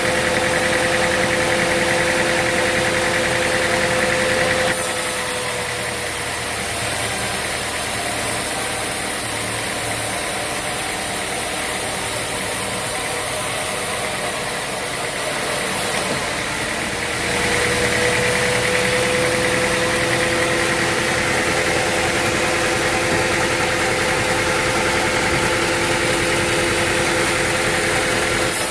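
Sawmill machinery running steadily, with a constant whine. The whine drops away about five seconds in and comes back after about seventeen seconds.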